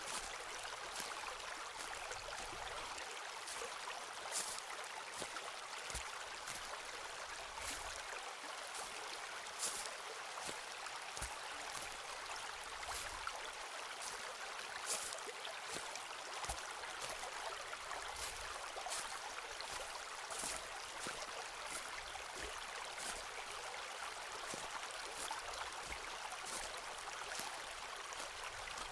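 Footsteps on a forest path: short crunches every second or two over a steady hiss.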